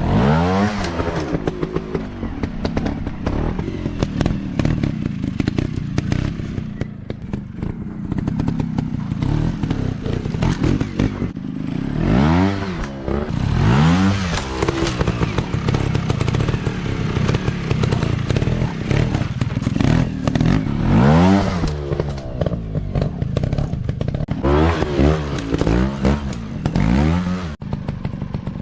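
Dirt bike engines running, revved up and down again and again in short throttle bursts, with some clatter.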